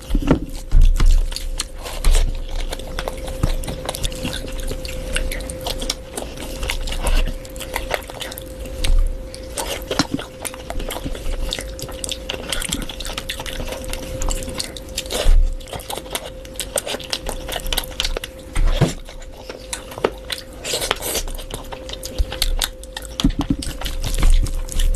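Close-up eating sounds: biting and chewing food, with irregular sharp clicks and short louder bites.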